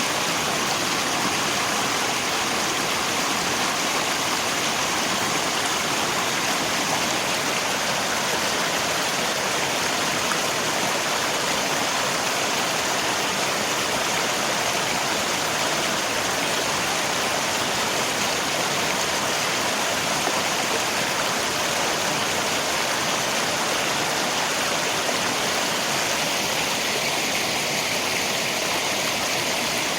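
River water rushing in a steady, dense hiss, with rain mixed in.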